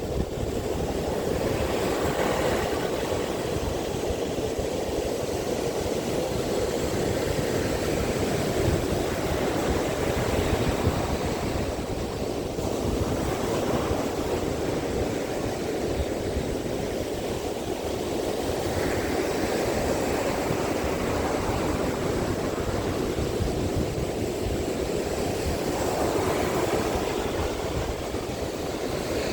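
Strong sea wind buffeting the microphone in a steady rumble, with surf washing onto the beach in several hissing swells.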